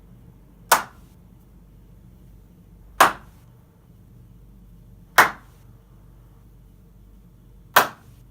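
Four single hand claps a couple of seconds apart in a small room lined with acoustic foam. Each is short and crisp and stops quickly with barely any reverberation tail: the foam is soaking up the echo.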